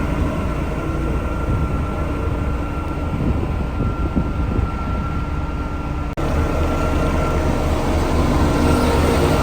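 Komatsu D41P crawler bulldozer's diesel engine running steadily under load, with a faint steady whine over it. It cuts out for an instant about six seconds in and comes back slightly louder.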